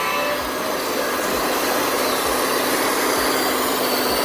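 A steady mechanical running noise like an idling engine, with a soft low thump about once a second; it starts and stops abruptly.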